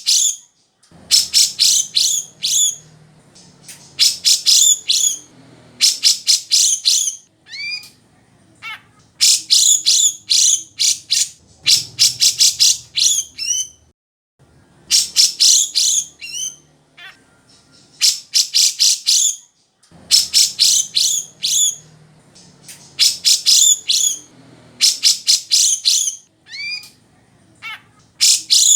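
A cucak jenggot (a bulbul) singing continuously: loud bursts of rapid, chattering notes, each lasting about a second and repeated every couple of seconds, with a few quick gliding whistles between the bursts.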